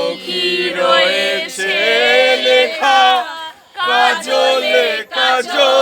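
A group of people singing together in several voices, with long held notes broken by short pauses for breath.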